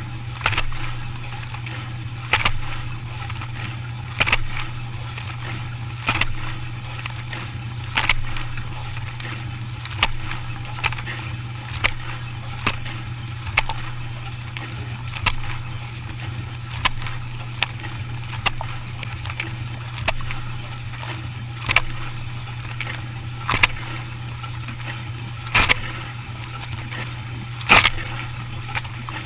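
A machine running with a steady low hum, punctuated by a sharp clack about every two seconds and lighter knocks in between.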